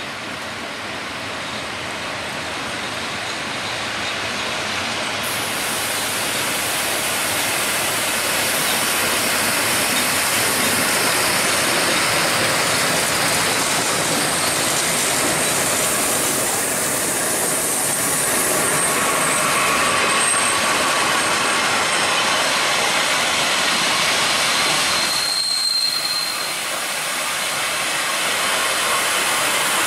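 Vintage electric locomotive and its old passenger coaches running past at close range: a steady rumble and clatter of steel wheels on the rails that grows louder over the first ten seconds or so. Thin, high wheel squeals come in during the second half.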